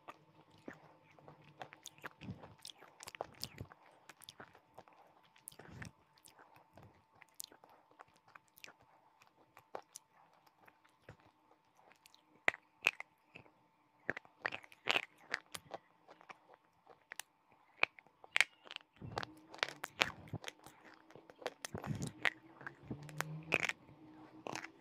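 Close-miked biting and chewing of a hard white chalky stick: a run of sharp crunches and crackles. They come sparsely at first and grow louder and denser about halfway through.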